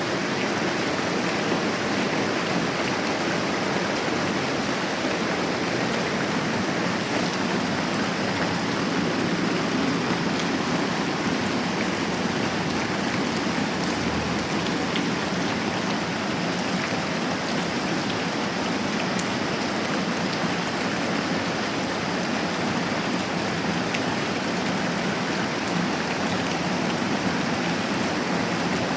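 Moderate rain falling steadily, an even, unbroken hiss.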